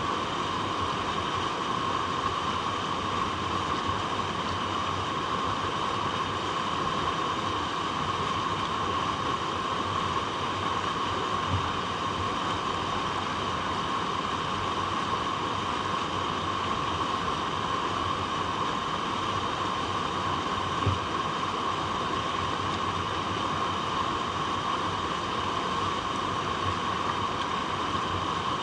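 Flowing water rushing over rocks, a steady unbroken sound at an even level, with one brief low knock about two-thirds of the way through.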